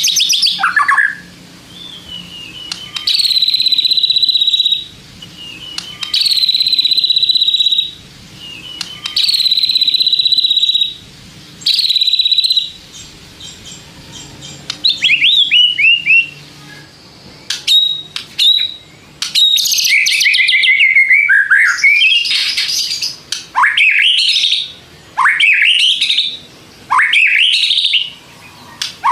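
White-rumped shama singing: four long, level whistled notes, then quick falling twitters and sharp clicks, and near the end a run of rising, sweeping notes.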